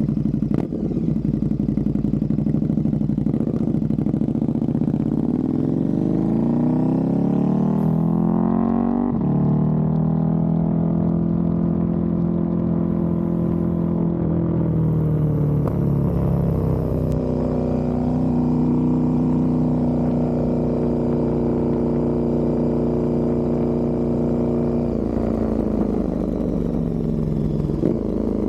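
KTM 1290 Super Duke R Evo's V-twin engine running through a full titanium exhaust. Its pitch climbs for a few seconds about a third of the way in, then holds steady, dips and settles briefly past the middle, and falls away near the end.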